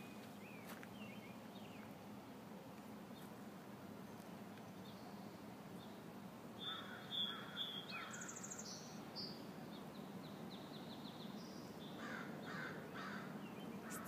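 Faint wild birds calling: a few short scratchy calls about seven seconds in and again near the end, with brief high rapid trills between them.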